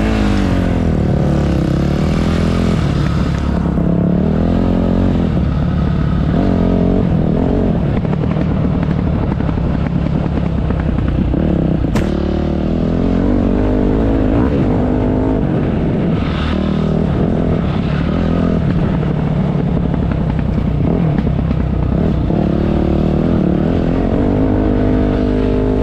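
Dirt bike engine revving up and down repeatedly, as when riding off-road terrain. There is one sharp click about twelve seconds in.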